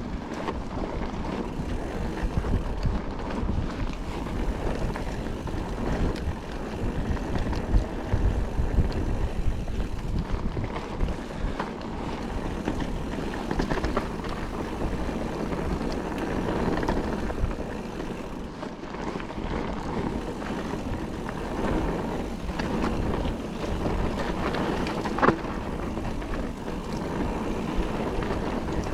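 Calibre Triple B mountain bike ridden along a dry, loose dirt trail: tyres on the ground and the bike rattling, with wind buffeting the camera microphone. There is a sharp knock about 25 seconds in.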